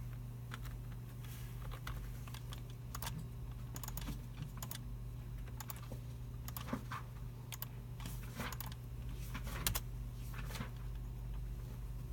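Computer keyboards being typed on, with irregular key clicks and a few sharper taps, over a steady low room hum.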